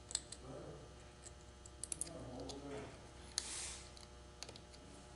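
Scattered light clicks and taps of small metal parts being handled, with a short scraping hiss a little past halfway: small parts, such as the filter, being fitted into an automatic transmission valve body.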